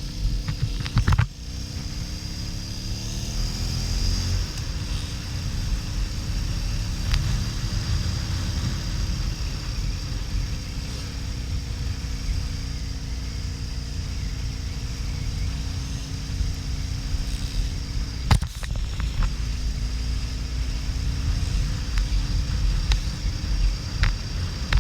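Harley-Davidson XL1200N Sportster's V-twin engine running at speed, its pitch climbing for a couple of seconds and then holding steady, under heavy wind rumble on the camera microphone. A few sharp knocks, one loud one about eighteen seconds in.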